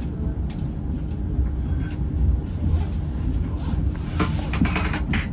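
Inside a moving passenger train: a steady low rumble from the running gear with a constant hum, and a brief rattle of clatter about four seconds in.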